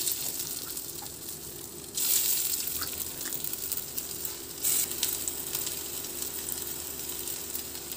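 Black-chickpea kebab patties sizzling as they shallow-fry in oil in a non-stick pan. The sizzle gets louder about two seconds in and swells briefly again near the five-second mark.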